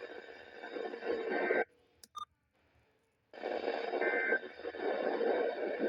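Weather radio broadcast breaking up into hissing static with garbled traces of the announcer's voice. It cuts out for under two seconds, with a couple of short clicks and beeps in the gap, then the static comes back.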